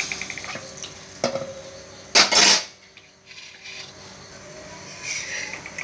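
Steel spatula clattering as it is set down by an iron tawa: a light click about a second in, then a short, loud metal clatter about two seconds in.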